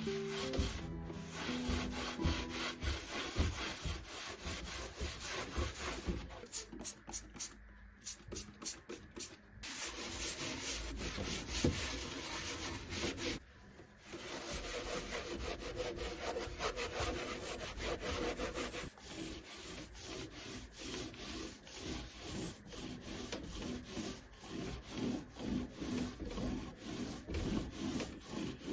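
A wooden furniture piece being hand-sanded in quick back-and-forth strokes, with a brief pause partway through.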